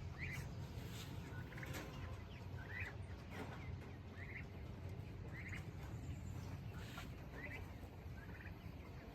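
Two young turkeys (poults, about two to three months old) calling with short, high peeps, about one a second, over a low steady rumble.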